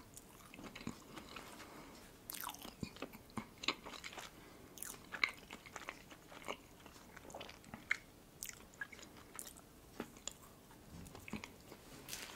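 A person biting and chewing a soft pastry bun, with many small irregular mouth clicks and smacks.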